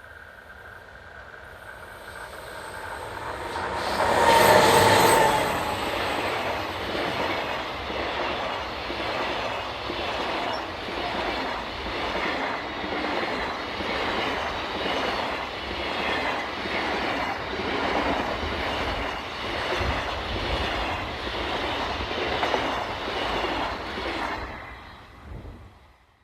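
A diesel-hauled freight train passing close by. The locomotives' approach builds to a loud peak about four seconds in, then the wagons roll by with a steady, rhythmic clickety-clack of wheels over the rail joints, and it fades away near the end.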